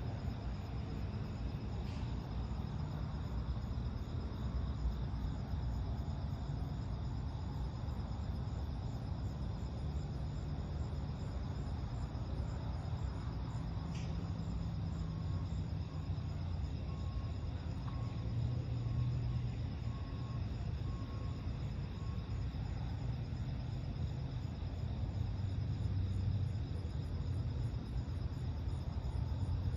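Steady low rumble of distant road traffic, swelling slightly now and then, under crickets chirping in a fast, even, high-pitched pulse.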